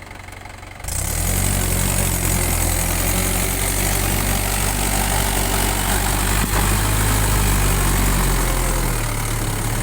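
Mahindra 475 tractor's diesel engine running low, then about a second in opened up sharply and held at high revs, with a slight easing near the end.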